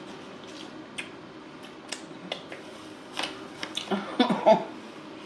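Close-miked eating sounds: a scattered series of sharp clicks and taps from chewing and handling food, busiest in the second half, with a brief low murmur of voice near the end.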